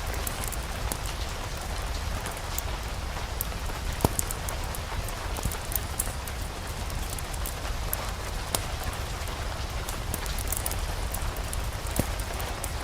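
Steady rain falling, with a low rumble beneath it and scattered sharp clicks and pops, one louder about four seconds in.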